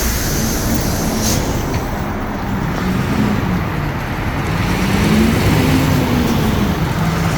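Hyundai Green City city bus's D6GB diesel engine pulling away. Its revs climb and drop twice, as at up-shifts through the five-speed manual gearbox, then settle lower, with road and traffic noise underneath.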